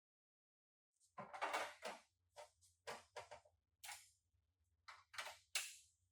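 A string of short, irregular clacks and scrapes, like tools or metal parts being handled and set down, starting about a second in after a dead-silent moment.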